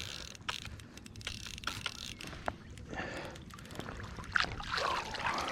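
Water splashing and sloshing, with scattered short clicks and knocks, as a hooked largemouth bass is brought into a landing net; the splashing is busiest near the end.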